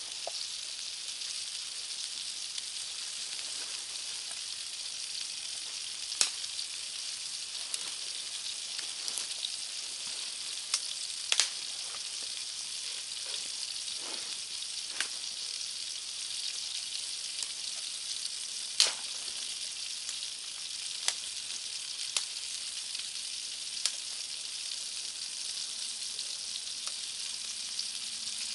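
Food sizzling in a pan over a campfire: a steady frying hiss with sharp pops every second or two.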